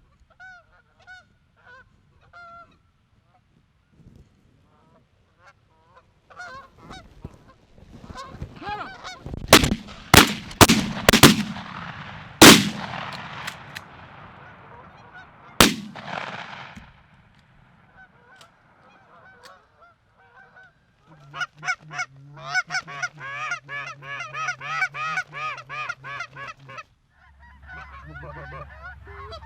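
Geese honking as a flock approaches, then six shotgun shots over about six seconds, the loudest a little after the middle, followed by a stretch of dense, rapid honking.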